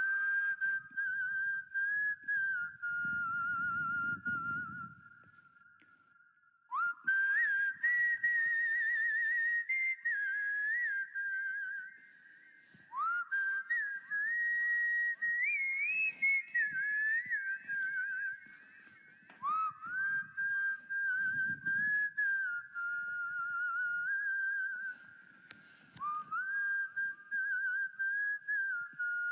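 A person whistling a melody by mouth, in phrases of a few seconds separated by short pauses; several phrases begin with an upward slide into the note.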